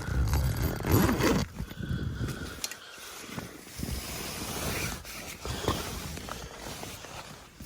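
Rustling and scraping of nylon tent fabric and bedding as someone shifts about inside a snow-loaded tent, loudest in the first second and a half and then quieter.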